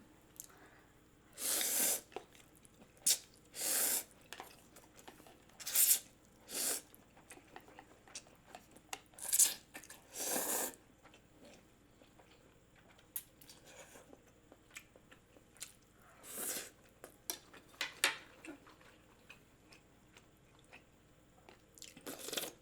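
A person eating close to the microphone: chewing and biting in short bursts, a dozen or so, with quiet pauses between them.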